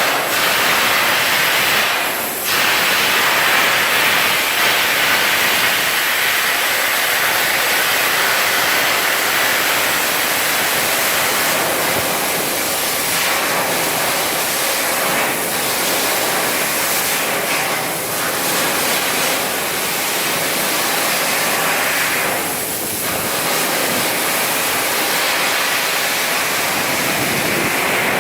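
Electric arc welding: a steady, loud arc hiss and crackle, broken briefly a few times.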